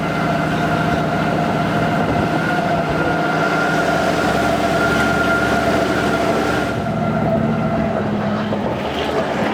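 Vehicle heard from inside the cabin while driving: steady engine and road noise with a held whine. The higher hiss drops away about seven seconds in.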